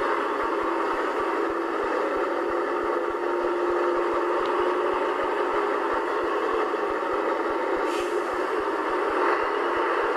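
Scania 143H 450 truck's V8 diesel engine running steadily, with a constant mid-pitched drone.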